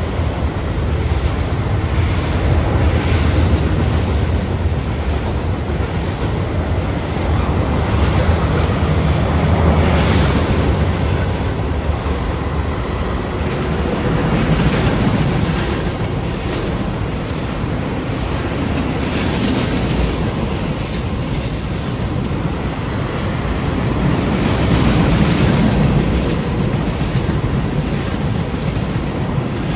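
Freight train's cars rolling steadily past, steel wheels running on the rails, the noise swelling and easing every few seconds.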